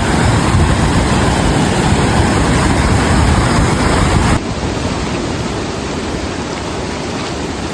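River rapids rushing loudly, a steady roar of water. About four seconds in it cuts to a slightly quieter stretch of the same rushing water.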